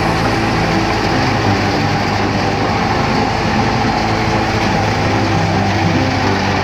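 Heavy harvesting machinery, a combine or a tractor-driven wheat thresher, running steadily under its engine with a continuous low hum and rattling noise.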